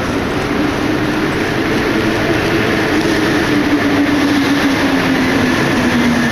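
Paris Métro MP89CA train running on line 14, a steady rumble with a whine that slowly falls in pitch.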